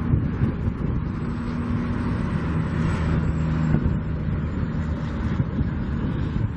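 Strong wind buffeting the microphone: a heavy, gusting rumble, with a low hum in the middle of it for a few seconds.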